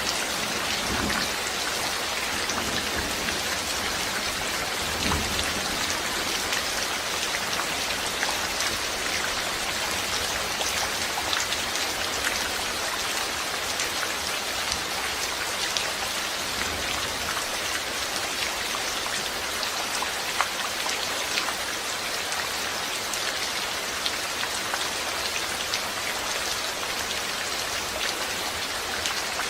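Steady, even rainfall on a hard surface, with individual drops heard as many small ticks.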